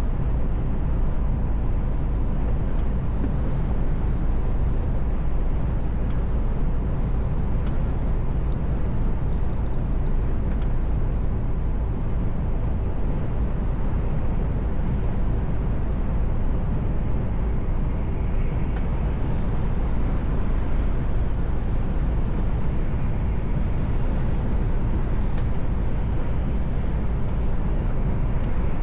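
Mercedes Actros L truck driving at a steady pace: a constant low rumble of diesel engine and tyre noise with a faint steady whine.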